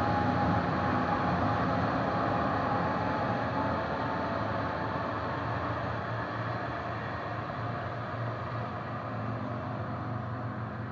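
Amtrak Pacific Surfliner train pulling away, its Siemens Charger diesel locomotive running with a low engine hum and a thin whine, the whole sound fading steadily as the train recedes down the track. The whine dies out within the first couple of seconds.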